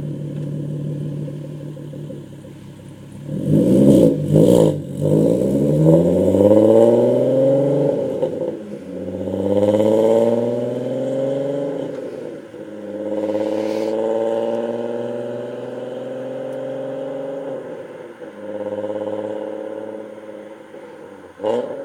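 Golf R32's 3.2-litre VR6 running through a free-flowing aftermarket exhaust with a test pipe in place of the catalytic converter, accelerating through the gears: the engine note climbs repeatedly and drops back at each gear change. Sharp cracks come around four seconds in, and the engine holds a steady pitch for a few seconds before pulling again near the end.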